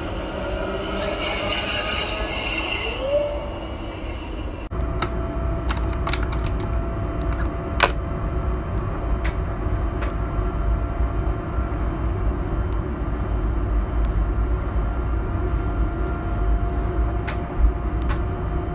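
A regional electric multiple unit passing on the line, with high-pitched wheel tones. About four and a half seconds in, the sound cuts to the steady low rumble of a train running at speed, heard from inside its cab, with a faint steady whine and scattered clicks.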